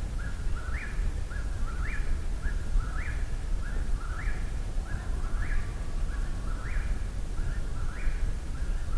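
Eastern whip-poor-will singing its whip-poor-will song over and over, one phrase rising at the end about every second, about eight times.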